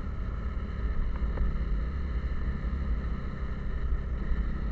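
Steady vehicle engine and road rumble, heard from on board: a heavy low drone with a constant hum, without change in speed.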